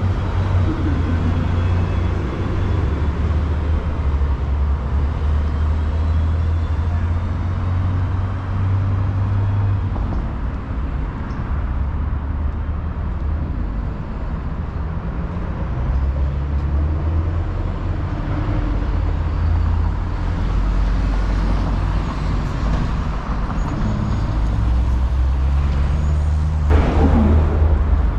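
City street traffic: the low rumble of cars, buses and trucks running and passing, with a short loud burst near the end.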